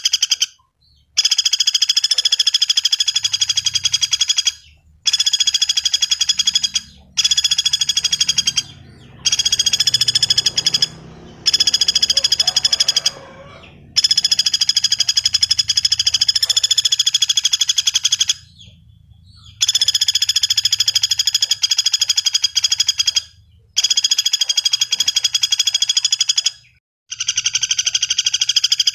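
Common flameback woodpecker (pelatuk bawang) giving its rapid, even rattling trill, repeated in stretches of two to four seconds with short pauses between.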